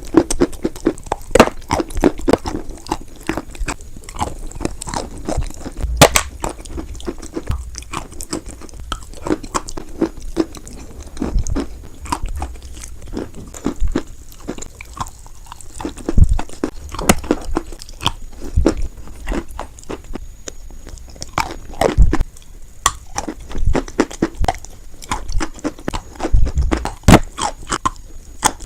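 Close-up biting and chewing of white chalk: repeated irregular crunches and cracks as pieces snap and are ground between the teeth.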